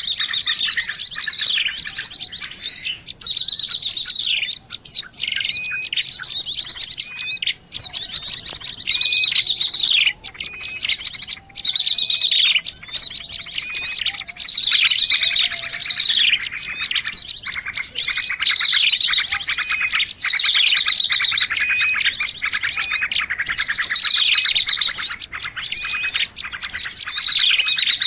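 Dense, continuous chirping and twittering of many small songbirds, the calls overlapping, with quick down-sweeping notes repeated over and over. This is a lure recording for small birds.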